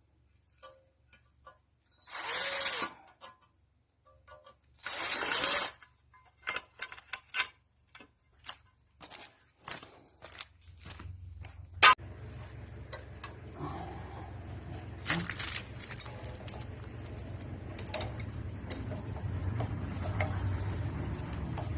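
Hand tools and metal parts being worked during a Lister SR3 engine teardown: two short bursts of rapid rasping, like a ratchet spanner being spun, then scattered clicks and clinks of metal with one sharp knock about halfway through. A steady low hum comes in about halfway and continues under the clicks.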